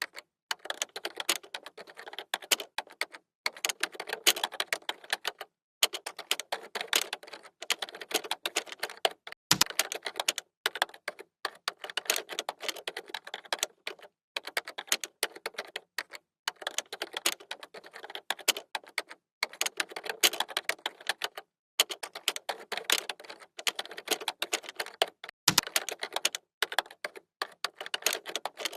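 Computer keyboard typing: rapid runs of key clicks, broken by short pauses every second or two. Two deeper thuds, about ten seconds in and near the end, sound like heavier keys such as the space bar or enter.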